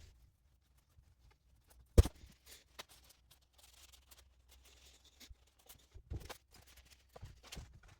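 Handling noises from reassembling a plastic box fan: scattered small clicks and rustles, with one sharp knock about two seconds in and a few more knocks near the end.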